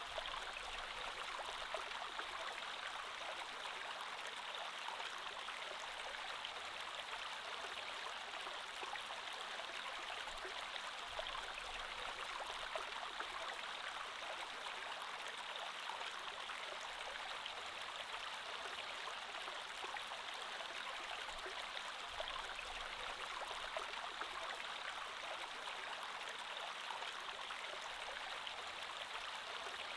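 A creek flowing steadily, an even rush of water with fine bubbling texture.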